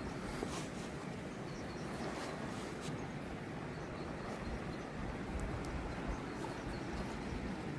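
Steady rushing of a fast river, with an uneven low rumble underneath and a few faint clicks.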